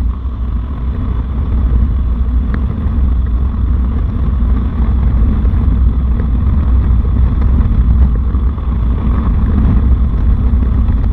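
Harley-Davidson motorcycle's V-twin engine running steadily under way, mixed with low wind rumble on the bike-mounted camera.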